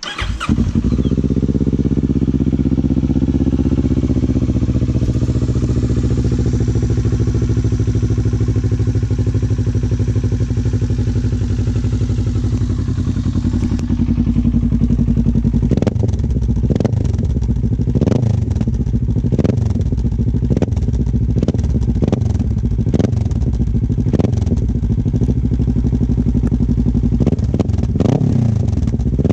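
Kawasaki ER-6 649 cc parallel-twin engine, swapped into a Yamaha Raptor 700 ATV, starting up and settling into a steady idle. About halfway through it is blipped repeatedly, with about a dozen quick revs, roughly one a second.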